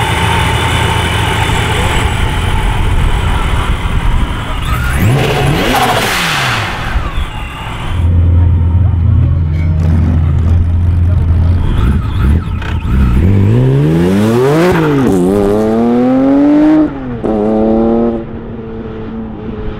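Supercharged BMW M3 E46's 3.2-litre S54 straight-six idling and being revved several times, its pitch rising and falling with each rev. Near the end it holds a steady, higher rev.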